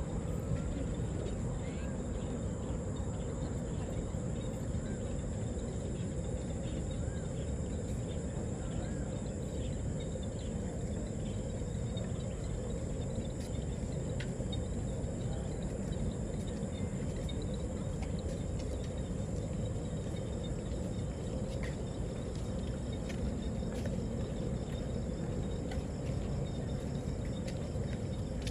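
Insects, crickets by their steady shrill trill, chirping without a break over a constant low rumble.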